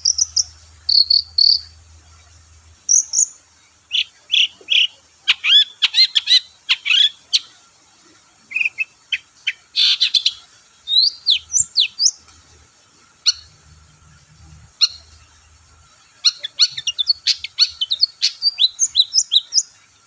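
Long-tailed shrike (cendet) singing a fast, varied song of sharp high chirps, trills and quick sweeping notes in bursts, with sparser notes in the middle. It is a full, active song, used as a lure to set other cendet birds singing.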